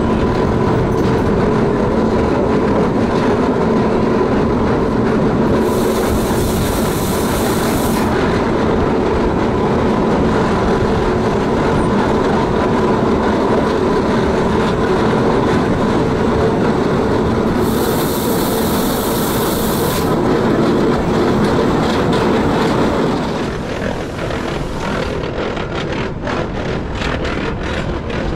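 Electric rack-railway train running, a steady motor and gear hum over its running noise, with two spells of high hiss of about two seconds each. Near the end the sound eases a little and a run of sharp clicks from the wheels on the track comes in.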